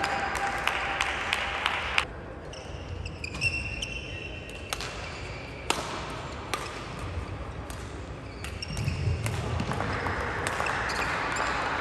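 Badminton rally in a sports hall: rackets sharply striking the shuttlecock at irregular intervals, with brief shoe squeaks on the court. Crowd noise swells about three-quarters of the way through.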